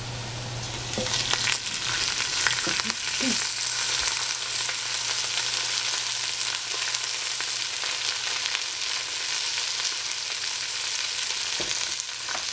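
Leftover salad greens and carrot frying in cooking oil in a stainless steel stockpot. A burst of crackling starts about a second in and settles into a steady sizzle.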